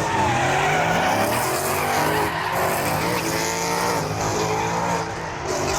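Drift cars sliding, engines revving up and down over a steady low drone, with tires squealing and skidding.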